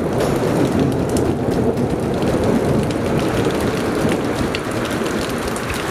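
Heavy rain pouring down: a steady dense hiss of rain with scattered sharp taps of drops striking close by.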